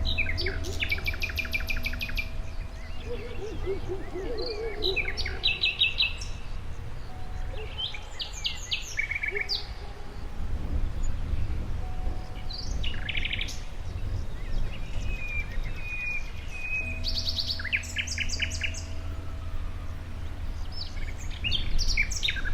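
Songbirds chirping and trilling, many short rapid trills overlapping, over a steady low rumble.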